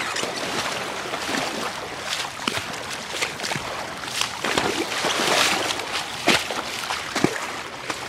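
Legs wading through floodwater, the water sloshing and splashing irregularly with each stride.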